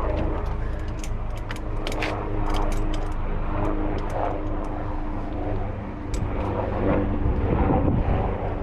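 An engine idling steadily, with scattered light metallic clicks and clinks, most of them in the first few seconds.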